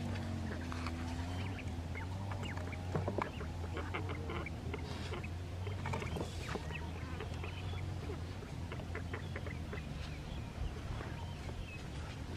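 Fowl-like birds calling, with short clucks and chirps throughout and a wavering call in the first second, over a steady low hum.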